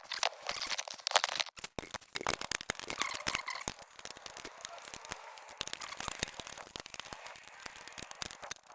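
Wrench working a 14 mm fastener on a motorcycle exhaust stud, making dense, irregular metallic clicks and short scrapes.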